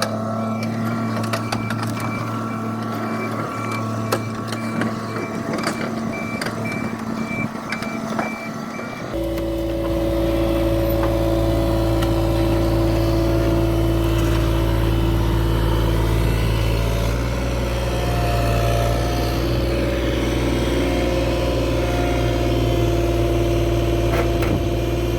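Vehicle or machine engine running steadily, with a pulsing electronic beep for about the first nine seconds; then the sound changes abruptly to a louder, steady engine drone.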